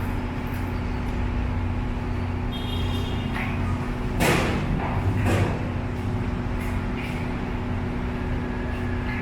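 Two loud clunks about a second apart, around the middle, as a heavy motorcycle is pushed up into a truck bed, over a steady engine hum.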